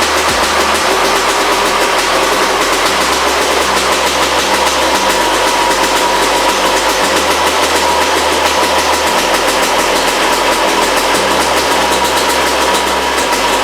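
1999 Yamaha YZ250's two-stroke single-cylinder engine running steadily at a fast idle, freshly started after a few kicks now that its no-spark fault is fixed.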